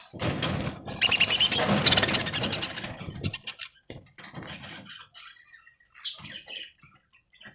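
A flock of budgerigars chirping and chattering, with a dense patter of short scratchy clicks for the first three seconds, then thinning to a few scattered chirps.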